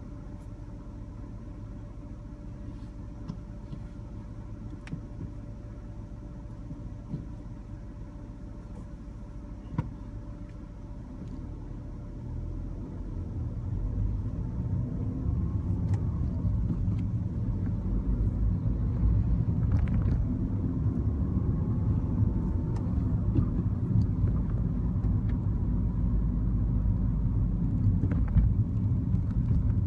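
Mini Cooper with a manual gearbox driving: steady low engine and road rumble, quieter at first, then growing clearly louder about twelve seconds in and staying up as the car gathers speed.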